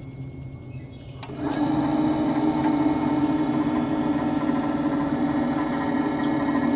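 Wood-Mizer LT35HD sawmill's head up/down drive motor lowering the saw head: a steady motor whine that starts about a second in.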